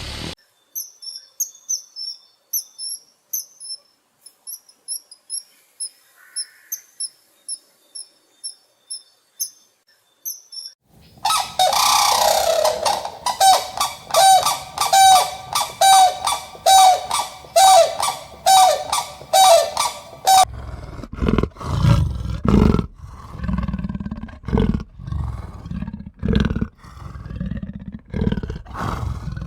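A bird chirps in quick, short, high calls for about ten seconds. Then comes a louder, different animal call in fast pulsing bursts, and about twenty seconds in, a run of irregular heavy low sounds.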